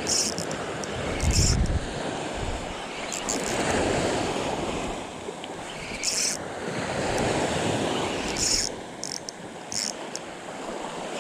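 Small surf washing onto a beach in slow swells, with wind buffeting the microphone, strongest about a second and a half in. Several short, high hissing bursts come and go on top.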